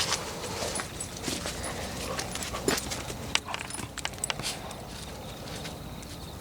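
Footsteps crunching through dry leaves and twigs on a forest floor: irregular crackling steps that thin out near the end.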